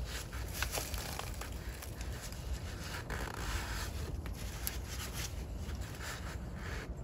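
A brush scraping and rubbing rust converter gel into rusted car bodywork.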